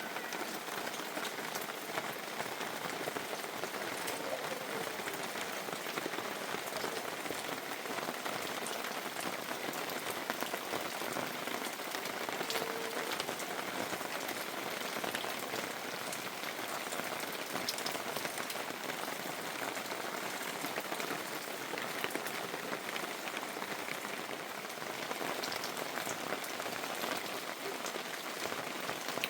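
Steady rain falling: an even hiss dotted with the ticks of individual drops.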